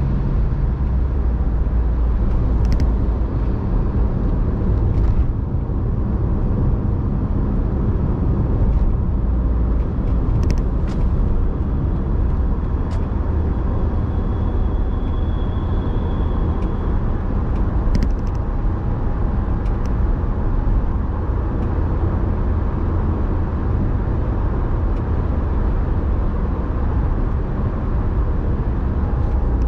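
Car driving: a steady road and engine rumble, with a few brief faint clicks scattered through it.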